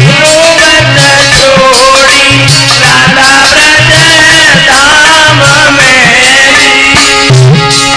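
Malhar folk music: a gliding, wavering melody over a steady hand-drum beat that repeats about once a second.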